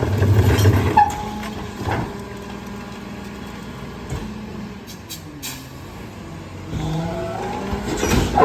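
Garbage truck's engine and hydraulic packer running, with knocks and clanks in the first two seconds, a steadier, quieter stretch, then the engine pitch rising near the end as the packer works under load.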